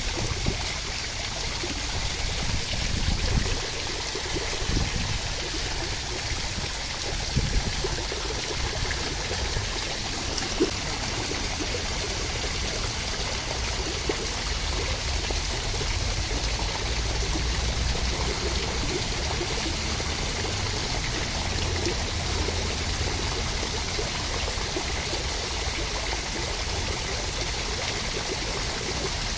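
Steady rushing water, an even hiss with no break, swelling in a few low rumbles in the first several seconds and carrying a few small drip-like clicks.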